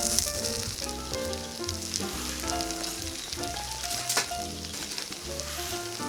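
Takoyaki batter sizzling steadily in a cast-iron takoyaki plate over a campfire, with a sharp click about four seconds in. Background music with a melody plays over it.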